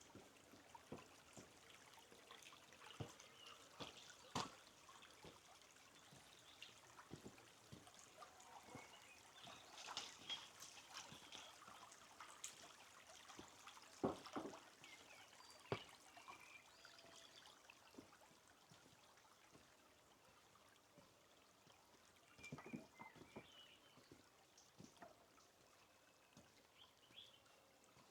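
Faint trickling stream water, with scattered soft clicks and a few faint high chirps.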